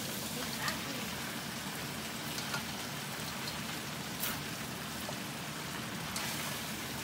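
Lobster pieces sizzling in oyster sauce in a hot wok while being stir-fried, a steady frying hiss. A few sharp clicks of the slotted spatula knock against the wok along the way.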